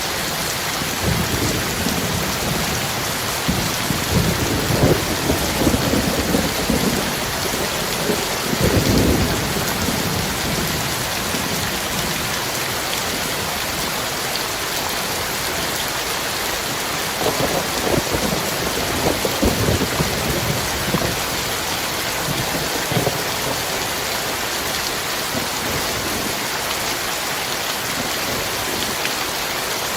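Heavy rain falling steadily, with two long rolls of thunder: one in the first third and another around the middle.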